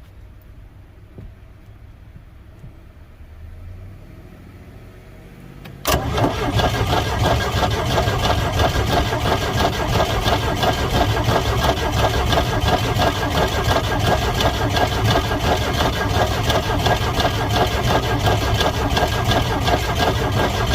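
A 1985 Four Winns 170 Horizon's engine being cranked by its starter without catching. A steady, fast chugging comes in suddenly a few seconds in, runs for about fifteen seconds without speeding up, then cuts off.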